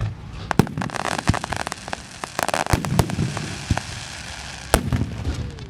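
Fireworks display: shells bursting as separate sharp bangs, with a stretch of rapid small pops in the middle.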